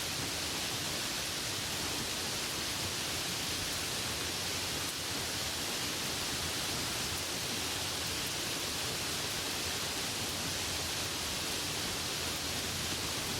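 Steady rain: an even hiss with no separate drops, knocks or thunder standing out.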